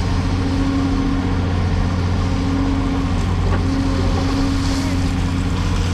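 Cat 336E hydraulic excavator's diesel engine running steadily under work, a constant low drone with a higher tone that comes and goes every second or two.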